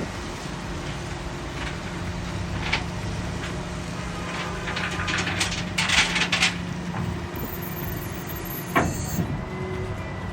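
A steady low mechanical hum runs under metal clattering and knocks as the truck's loading ramps are pulled out, the heaviest clatter coming about five to six seconds in, with a single knock near the end.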